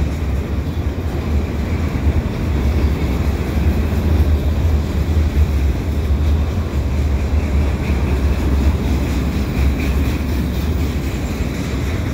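Freight cars of a long mixed freight train rolling past close by: a loud, steady rumble of steel wheels on the rails, heaviest in the low end.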